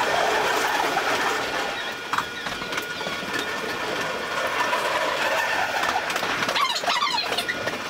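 E233-series electric train running, heard from behind the driver's cab: a steady rolling noise of wheels on rail with faint whining tones. A brief high warbling sound comes near the end.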